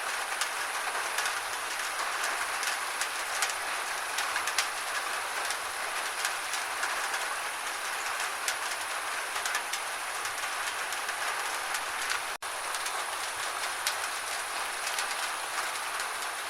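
Steady gentle rain, an even hiss with many scattered drops tapping sharply on surfaces. The sound cuts out for an instant about twelve seconds in.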